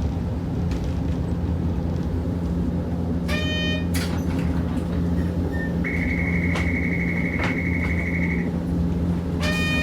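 Inside a Hiroshima Electric Railway 650-type tram, a steady low hum with two short ringing signal tones, about three seconds in and again near the end. Between them a steady high beep sounds for about two and a half seconds.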